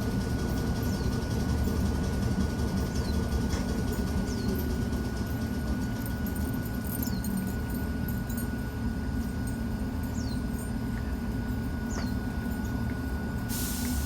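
Hakone Tozan Railway train running, a steady low rumble with a continuous thin whine and short, high squeaks that recur every second or two.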